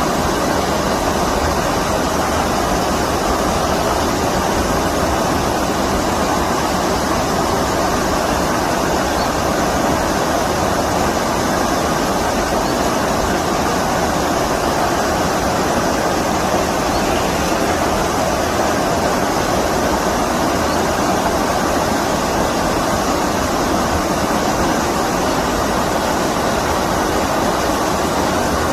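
Stream water rushing steadily, a loud, even rush with no breaks.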